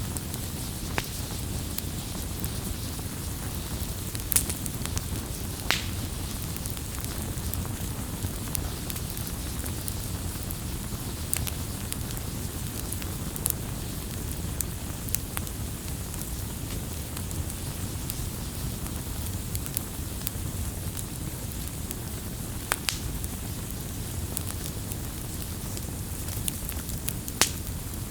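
Wood campfire burning with a steady low rumble and scattered crackles, including a few sharper, louder pops.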